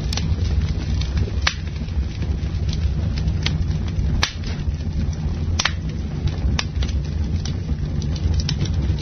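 Campfire burning: a steady low rush of flames with frequent small crackles and a few sharp, loud wood pops scattered through.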